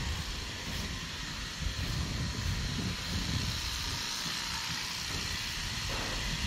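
Electric horse clippers running steadily, a constant hiss with an uneven low rumble underneath, as a horse's coat is clipped.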